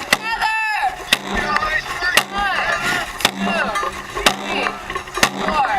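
A drum struck steadily about once a second, typical of a dragon boat drum beat, with several people shouting and cheering over it.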